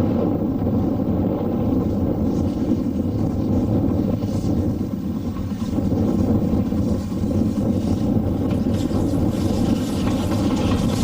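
Heritage railway train running with a steady low rumble.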